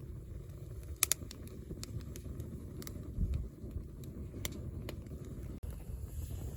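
A steady low rumble with a few scattered sharp clicks and crackles.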